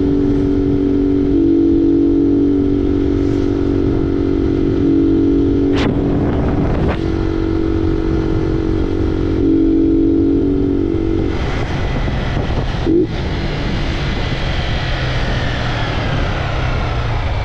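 Honda CG 125 Fan's single-cylinder four-stroke engine running under way with its air filter removed, over heavy wind noise on the microphone. About two thirds of the way through, the steady engine note falls away and mostly wind and road noise is left.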